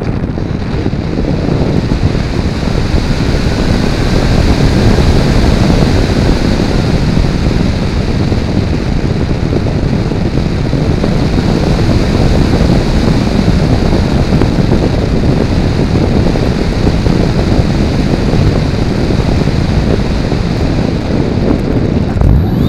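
Steady rushing wind noise on the onboard camera's microphone as an RC model plane flies; the bulky camera sits square in the airflow.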